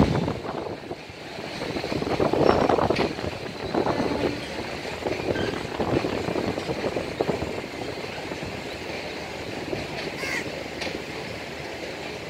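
Passenger train's coaches rolling past on the tracks, a steady rumble of wheels on rail that swells and eases, with faint knocks.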